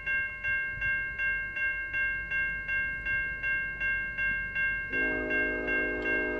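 Level crossing warning bell ringing steadily at about three strokes a second. About five seconds in, a train horn starts blowing a steady chord over it as the train approaches.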